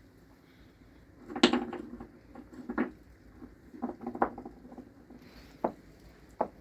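Hard objects being handled and set down: a scattered string of knocks and clinks, the loudest cluster about a second and a half in, ending with two single sharp knocks.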